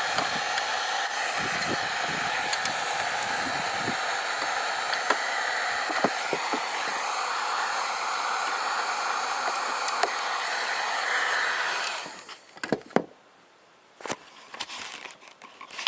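Wagner heat gun running steadily as it softens old roof-vent putty. About three-quarters of the way through it cuts off, leaving a few sharp clicks.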